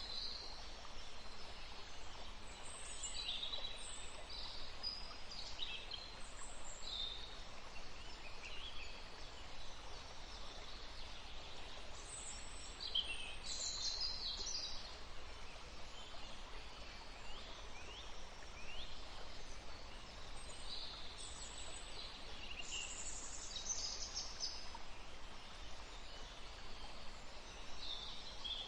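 Songbirds chirping in short, high notes and quick glides, scattered irregularly throughout, over a steady faint background hiss.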